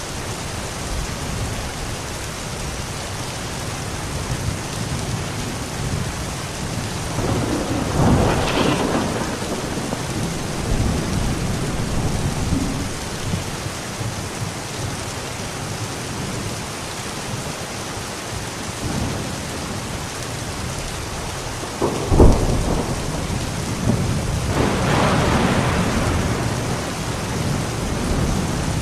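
Steady heavy rain with thunder: a rumble swells about eight seconds in, a sharp crack comes about 22 seconds in, and a longer rumble follows near the end.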